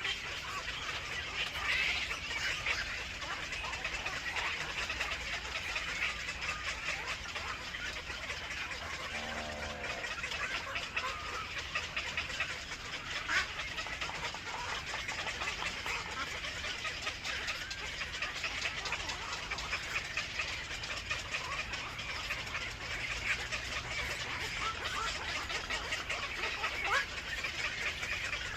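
Birds chirping steadily in many short, overlapping calls, with one brief lower-pitched call about nine seconds in.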